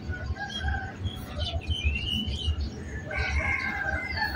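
Freight train of hopper wagons rolling slowly past: a low rumble of the wheels on the rails with uneven thumps. Birds are calling over it, including short chirps.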